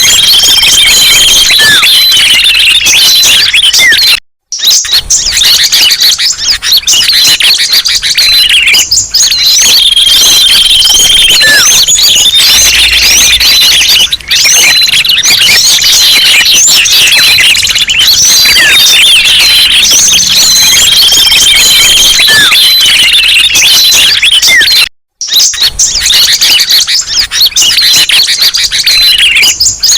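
Bird-lure recording: a dense, loud chorus of many small songbirds chirping, trilling and whistling over one another, with short held whistled notes. The sound cuts out completely twice, briefly, about four and a half seconds in and about twenty-five seconds in.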